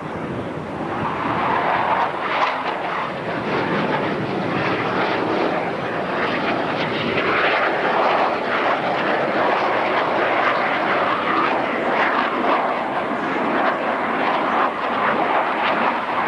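Jet engine noise of F/A-18 Hornet fighters flying over in formation: a loud, steady rush that swells about a second in and then holds.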